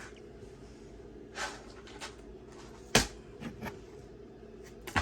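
Light clicks and knocks of jewelry pieces being picked up and set down while sorting through earrings, with one sharper knock about three seconds in.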